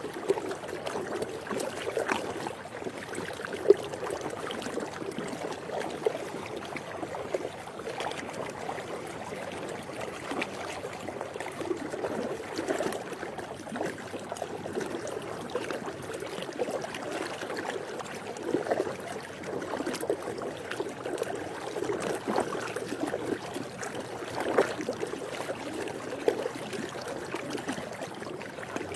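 Swimming pool water lapping and gurgling steadily, with small irregular splashes and drips scattered through and one sharper splash about four seconds in.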